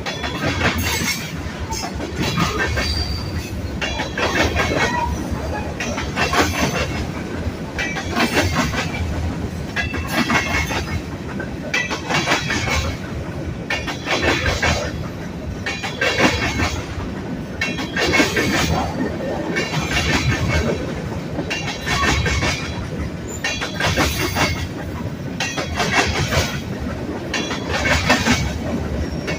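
Freight train's cars rolling past, steel wheels clattering over the rail joints in surges that come about every two seconds over a steady rumble.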